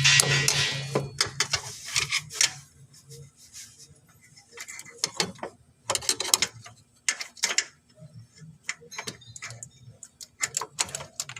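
A screwdriver clicks and scrapes irregularly against the terminals of a Hyundai D4BB starter motor as they are bridged. The starter never cranks: it only sparks, a sign of a failed starter. A louder, noisier clatter comes in about the first second.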